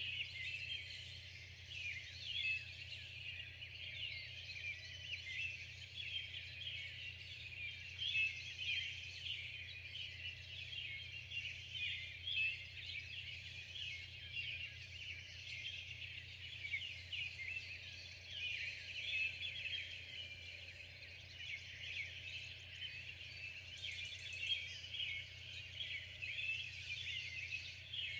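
Dawn chorus: many birds chirping and singing at once in a dense, continuous chatter of short high notes.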